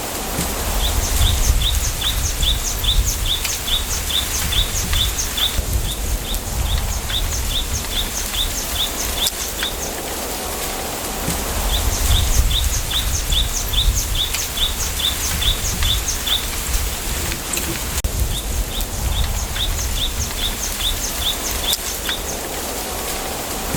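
Wind in a bamboo grove: a low rumble that swells and eases. Over it a bird repeats a short high note about four times a second, in three runs of several seconds with short pauses between.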